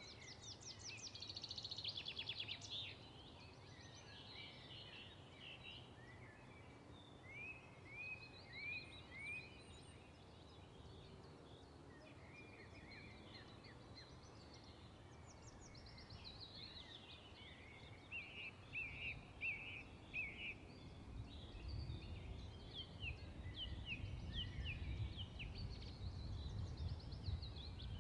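Faint birdsong in the background: scattered chirps, quick trills and short repeated whistles, over a steady hiss. A low rumble builds in the last few seconds.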